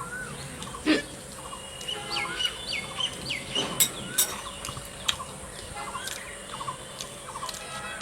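Small birds chirping repeatedly: many short, quick rising and falling chirps throughout, with a few sharp clicks about a second in and near the middle.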